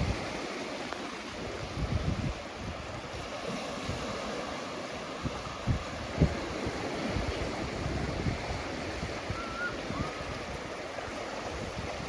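Ocean surf washing onto a beach as a steady wash, with wind buffeting the microphone in low rumbling gusts. Two brief thumps come about halfway through, and two faint short chirps come near the end.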